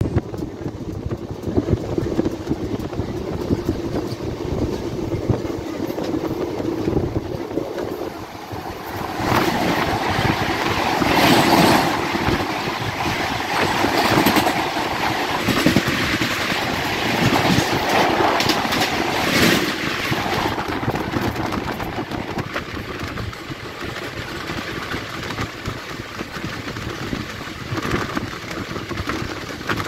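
Indian Railways passenger train running at speed, heard at an open coach door, wheels clattering over the rails. From about nine seconds in to about twenty seconds, a train of LHB coaches passes close on the next track: a louder rush with sharp clacks, before the sound falls back to the steady run.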